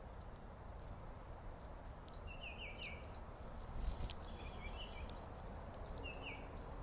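Small birds chirping faintly in three quick groups of short, falling notes, with a few sharp ticks between, over a steady low outdoor background noise.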